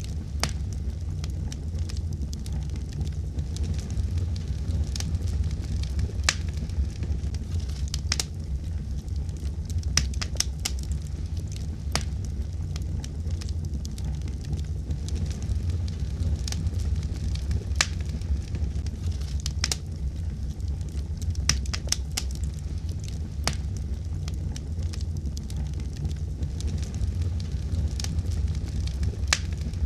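Fireplace fire crackling: a steady low rumble of burning, with sharp pops and snaps at irregular moments.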